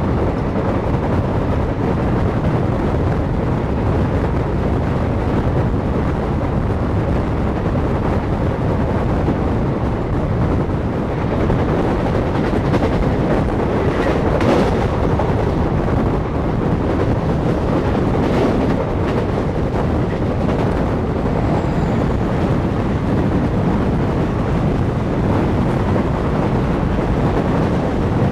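Passenger train running at speed, heard from an open coach doorway: a steady rumble of wheels on rails with wind buffeting the microphone, and two brief louder clatters about halfway through.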